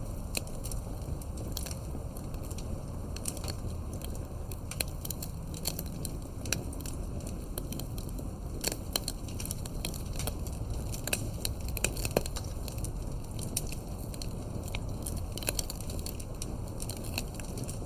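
Wood fire burning, crackling with frequent irregular sharp pops and snaps over a low steady rumble of the flames; one louder pop about twelve seconds in.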